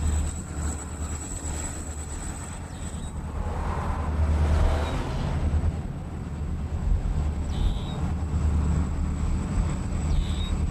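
EMD diesel locomotive running with a heavy, steady low rumble, swelling in noise about four seconds in as the train moves. A few short high-pitched chirps sound over it.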